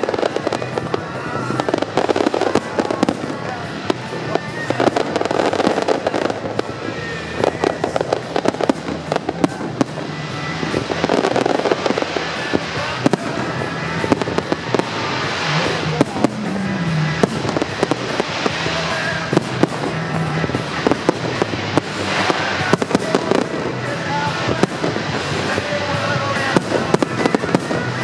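Fireworks going off in a rapid, continuous stream of bangs and crackles, with music playing underneath.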